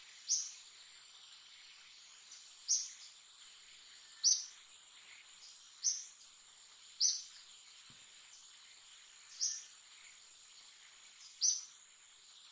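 Steady high-pitched insect drone with a bird's short, sharp chirp repeated seven times, one every one and a half to two and a half seconds.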